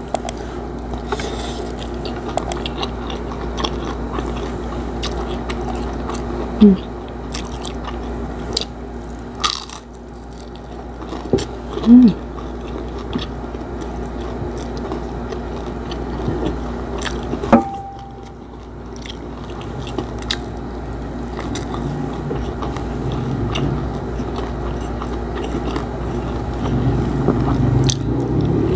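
Close-miked chewing and mouth sounds of a person eating rice and fried milkfish by hand, with small crunches and clicks and a few short, louder gulping sounds.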